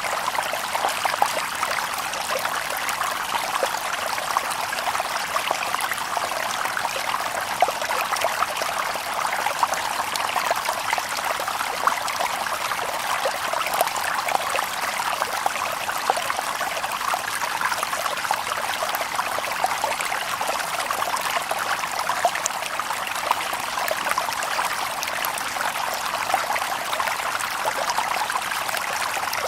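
Shallow stream babbling over stones, a steady splashing trickle with many small droplet splashes.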